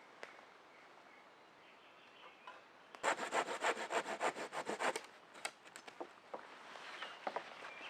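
Hand saw cutting wood: a quick run of back-and-forth strokes, about six or seven a second, for roughly two seconds starting about three seconds in, followed by a few light knocks and clicks.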